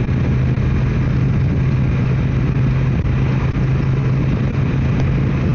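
Motorcycle engine running at a steady cruising speed, its drone holding one pitch, under a steady rush of wind.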